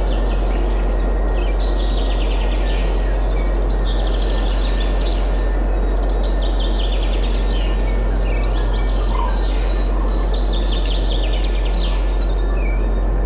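Several small songbirds singing throughout, with rapid trills and quick falling notes, over a steady rush of wind and a constant low rumble.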